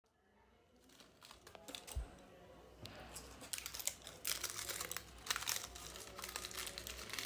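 Rapid crinkling and small crunching clicks from a pet green parrot eating a piece of chocolate, sparse at first and growing dense from about three seconds in.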